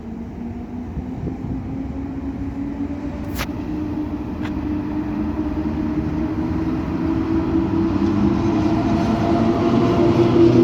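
A train approaching, its steady hum and rumble growing louder throughout, with two faint clicks a little over three and four and a half seconds in.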